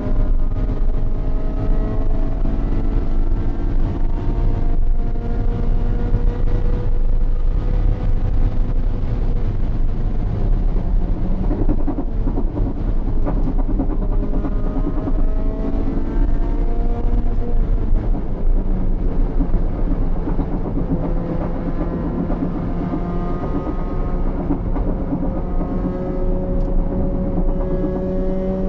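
In-cabin sound of a Honda Civic's B18C four-cylinder engine running at part throttle, its pitch slowly rising and falling, over a loud steady road and wind rumble.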